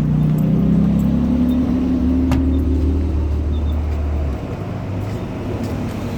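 A motor vehicle engine running, its pitch rising slightly over the first two seconds, with a deep low hum that cuts off about four seconds in. A single sharp click sounds a little past two seconds.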